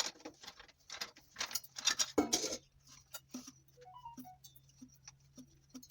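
Water dripping and splashing into a pot set under the disconnected sink pipework, as a quick run of irregular taps that thins out to scattered drips after about three seconds. A steady low hum runs underneath.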